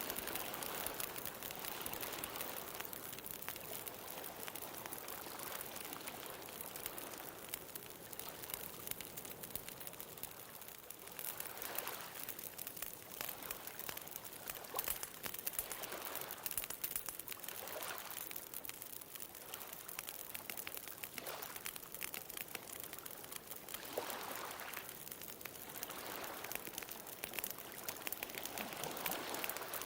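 Wood bonfire crackling with many small sharp pops, over ocean waves that swell and wash up on the shore every few seconds.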